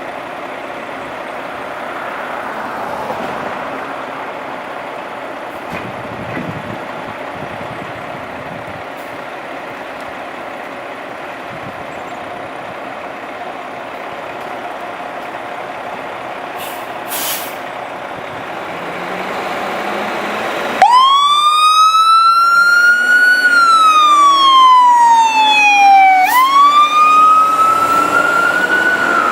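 Fire truck running with a steady engine rumble and a brief hiss about 17 seconds in. About 21 seconds in, its siren starts loud, wailing slowly up and down with a quick upswing near 26 seconds, as the truck responds to a call.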